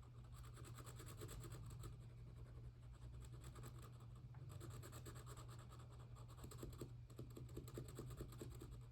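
Faint, rapid scratching of a drawing tool coloring in on paper, in quick back-and-forth strokes, over a steady low hum.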